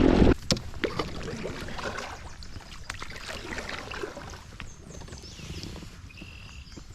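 Small knocks and taps around a kayak on the water over a faint steady haze, after a louder noisy sound cuts off abruptly just after the start. A couple of short, thin high-pitched tones come near the end.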